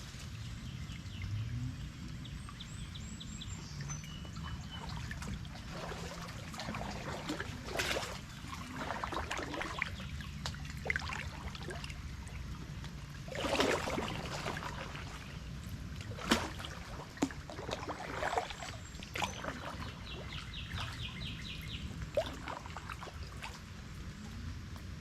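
Water splashing and trickling from a kayak paddle in irregular strokes, with birds chirping briefly now and then.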